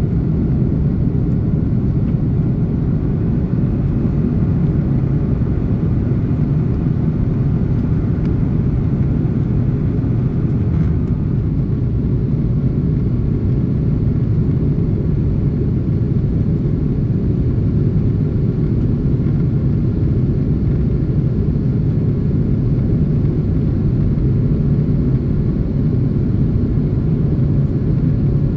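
Steady low rumble heard inside the cabin of an Airbus A330-300 powered by Pratt & Whitney PW4000-series turbofans: engine drone and airflow noise from the plane under way, holding even throughout.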